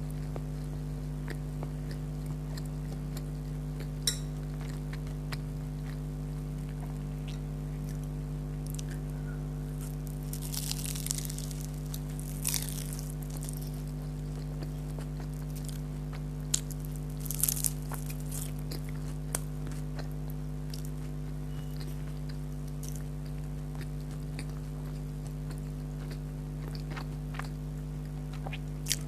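Close-miked chewing and crunching of beef kachori and onion, with scattered crisp bites, the loudest about a third of the way in and again just past the middle. A steady low electrical hum runs underneath.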